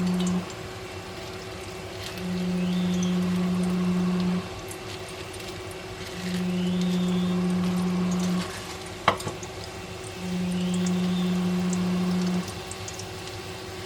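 A low machine hum that switches on for about two seconds and off for about two, over and over, above a steady fainter hum, with one sharp click about nine seconds in.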